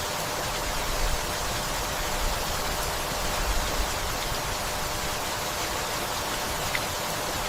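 Steady rainfall: an even hiss with a low rumble underneath.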